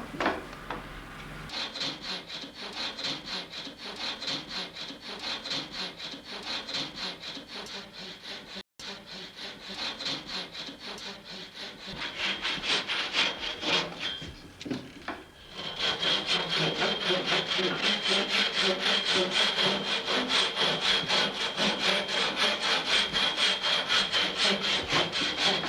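Hand frame saw cutting across a wooden saddle-frame centerpiece, sawing the strap groove about half an inch deep in steady back-and-forth strokes, about two a second. It gets louder about two-thirds of the way in.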